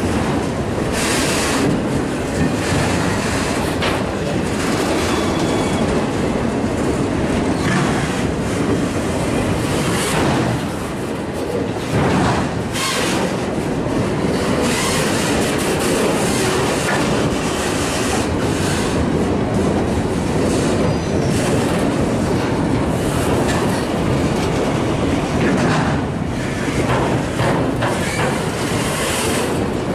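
Freight train of autorack cars rolling past close by on a curve: a steady rumble of steel wheels on rail with clickety-clack knocks as the wheel sets pass, and a faint squeal from the wheels now and then.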